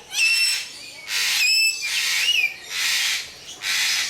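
A bird calling loudly, alternating short whistled notes with harsh, screechy squawks, about three squawks in all.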